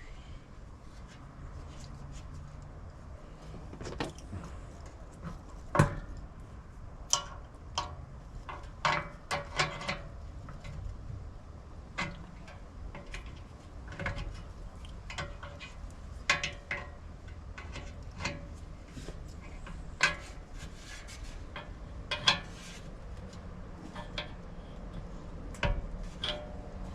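Scattered clicks, knocks and clatter of tools and small parts being handled, over a low steady hum.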